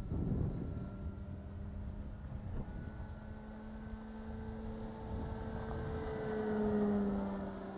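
Electric motor and propeller of a large radio-controlled model airplane flying past. A steady hum grows louder, then drops slightly in pitch and fades near the end as the plane passes.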